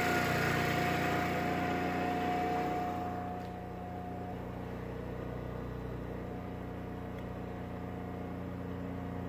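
Briggs & Stratton Q6500 inverter generator running steadily at full engine speed with its QuietPower Technology (QPT) mode off. The hum drops noticeably in level about three seconds in and then holds steady.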